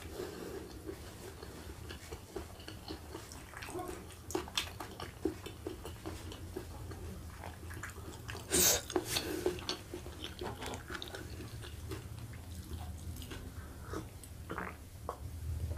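Close-miked wet chewing and mouth sounds of a person eating rice and rendang by hand, with many small smacks and clicks and a sharper burst about halfway through. A few gulps from a glass come near the end.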